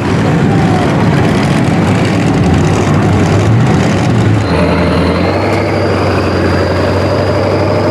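Truck engine running loudly. About halfway through it settles into a steady note, with a faint rising whine above it.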